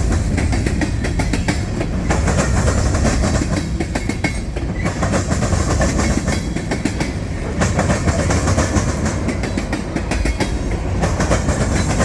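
Freight train rolling past, steel wheels clattering continuously over rail joints over a steady low rumble.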